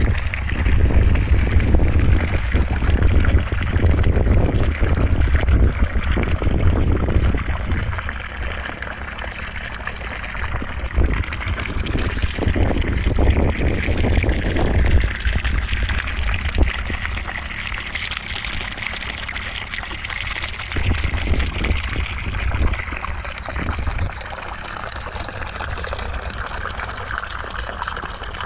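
Continuous white noise of running water rushing steadily, with a deep rumble that swells through roughly the first half and again briefly a little past two thirds of the way through.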